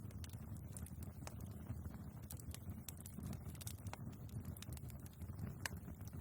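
Wood fire burning in a fireplace: a steady low rumble of the flames with frequent irregular crackles and small pops from the logs.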